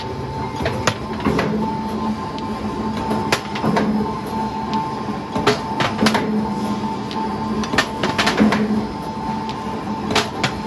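Automatic round steel bar shearing machine running: a steady machine hum with irregular sharp metallic clanks and knocks.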